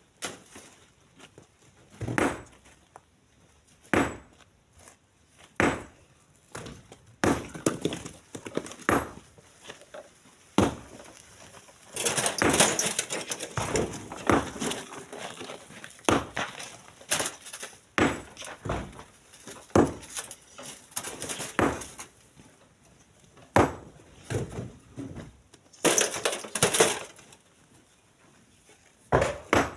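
Split stone being loaded by hand into a truck bed: chunks of rock knock and clatter down one after another, every second or two, with longer rattling spells about twelve seconds in and again near the end.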